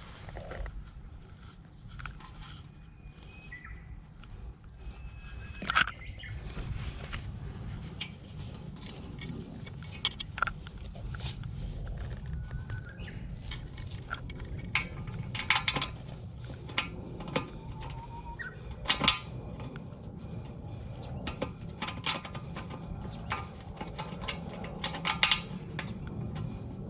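Irregular sharp clicks and metallic knocks, with a few short bird chirps and a steady low rumble underneath.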